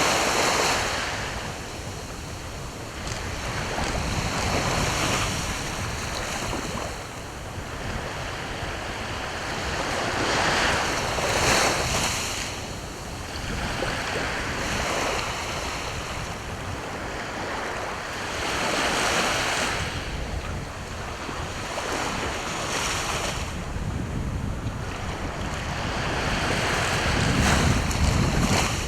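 Sea waves breaking on the shore in repeated surges a few seconds apart, with wind buffeting the microphone, most strongly near the end.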